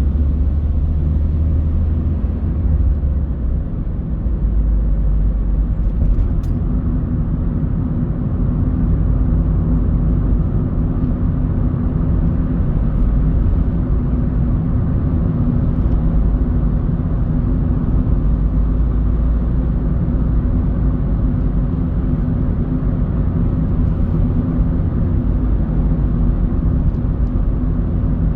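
Car driving on city roads: a steady low rumble of engine and tyre noise, its deepest hum dropping in pitch a little under four seconds in.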